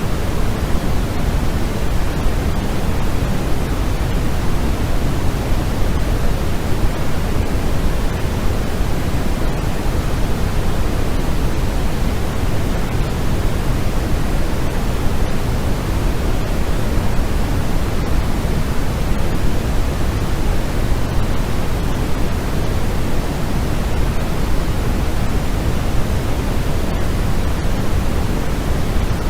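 Steady white noise for sleep: an even, unchanging hiss, heavier in the low end than in the highs.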